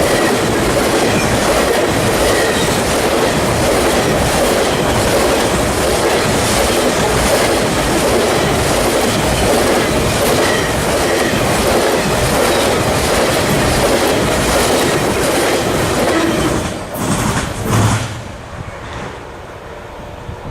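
Freight train cars rolling past on the rails, a loud steady rumble of wheels on track. About 17 seconds in the sound drops away sharply as the end of the train goes by, with a last couple of surges before it quietens.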